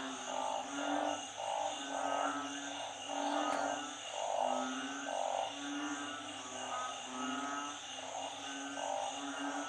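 Chorus of narrow-mouthed frogs (อึ่ง) and small frogs (เขียด) calling in floodwater. Many short calls overlap, several each second, some low and tonal and others buzzier, over a steady high-pitched drone.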